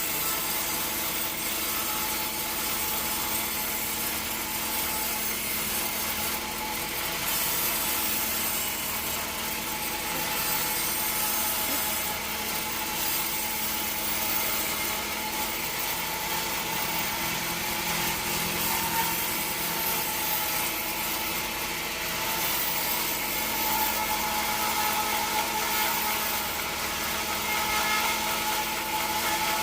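Band sawmill blade cutting through a teak log, a steady sawing hiss over the mill's constant machine hum.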